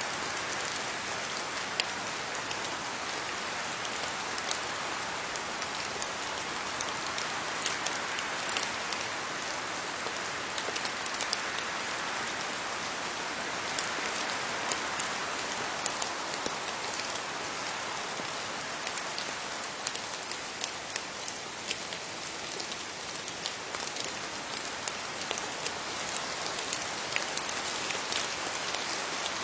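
Steady rain falling on leaves, an even hiss dotted with the sharp ticks of individual drops.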